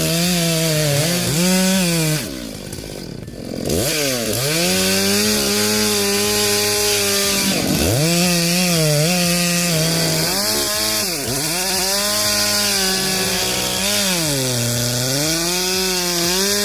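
Chainsaw running at high revs while cutting into a hard-leaning ash. The engine note dips and climbs back several times as the chain loads in the wood. It drops away briefly about two seconds in before revving up again.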